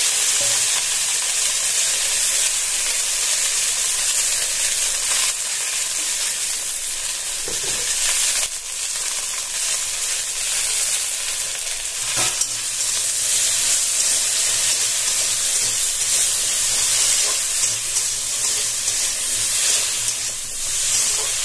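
Chopped okra sizzling in hot mustard oil in a steel wok: a loud, steady frying hiss, with a few sharp knocks from a spatula stirring it.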